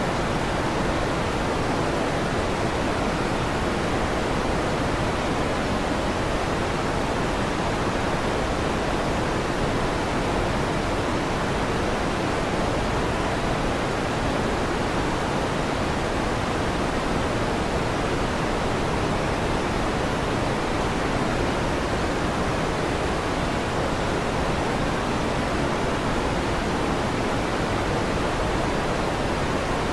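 Electric fan running steadily: an even rushing noise, strongest in the low and middle range, with no change and no thunderclap.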